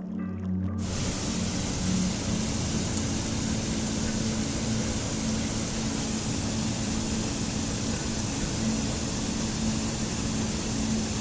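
Running water rushing steadily, an even hiss-like roar that cuts in abruptly about a second in as music stops, with a faint low tone underneath.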